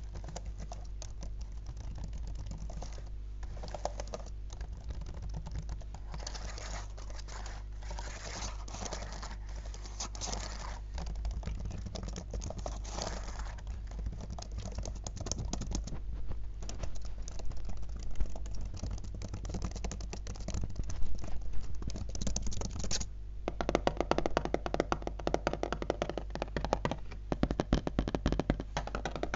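Fast finger tapping on a laptop's keys and casing: a dense run of rapid clicks that grows denser and fuller about 23 seconds in.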